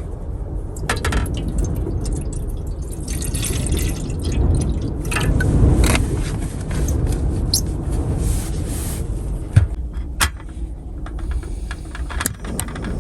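Low rumble of strong wind buffeting a car, with scattered small clicks and clinks of items being handled, two sharper knocks about nine and ten seconds in.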